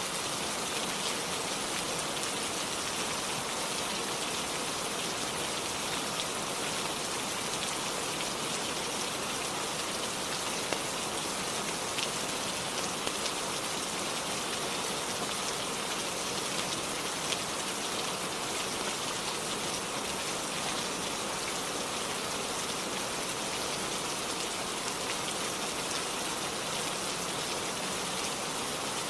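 Steady rainfall, an even hiss without let-up, with a few sharper single ticks around the middle.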